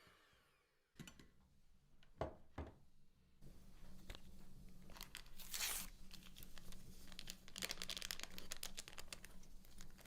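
Faint handling noises: a few knocks, then repeated rustling, crinkling and tearing sounds over a low steady hum.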